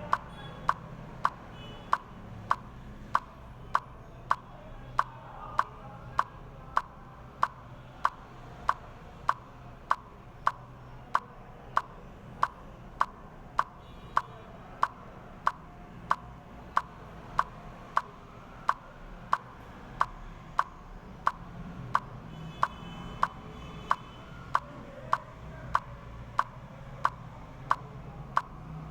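Steady, even ticking, about one sharp tick every 0.6 seconds, like a metronome or clock, over a low hum.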